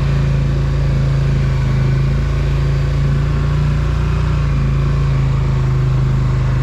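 Polaris Sportsman ATV engine running steadily at an even, low speed while riding.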